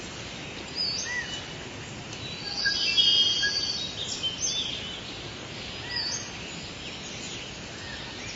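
Birds singing: scattered short chirps and whistled notes, most dense and loudest about three seconds in, over a steady background hiss.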